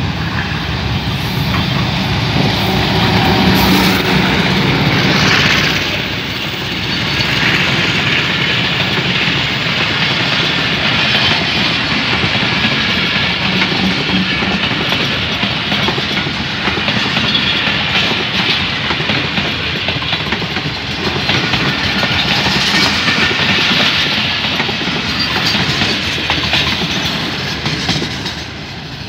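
A Pakistan Railways diesel locomotive passes close at speed, its engine loudest in the first few seconds. A long string of passenger coaches follows, rattling by with a steady clickety-clack of wheels over the rail joints. The sound drops as the last coach passes near the end.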